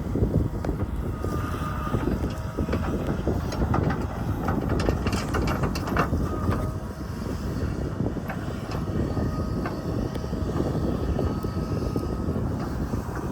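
Strong wind buffeting the microphone, with a machine's engine running steadily underneath and a few sharp clanks about halfway through.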